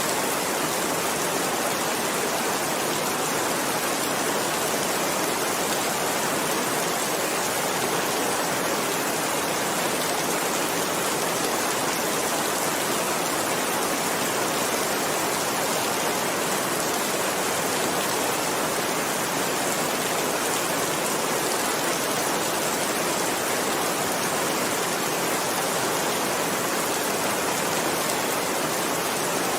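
Heavy rain falling in a steady, unbroken downpour, with no thunder and no single drops standing out.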